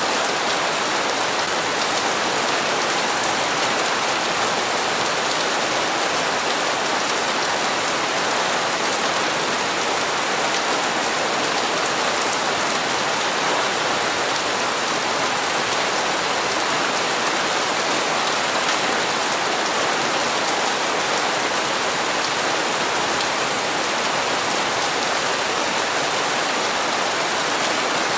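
Steady, even rain falling, a constant hiss of drops on hard surfaces with no let-up.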